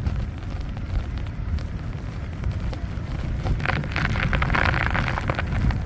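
Wind buffeting the microphone throughout. From about three and a half seconds in, there are two seconds of crinkly rustling and scraping as a tarp and its rope are handled to tie down a corner.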